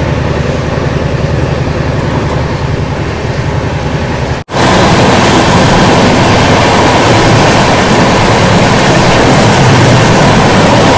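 Steady low rumble of a moving passenger train coach. About four and a half seconds in it cuts to a louder, even rushing noise of wheels and air as the Satyagraha Express runs past close alongside on the adjacent track.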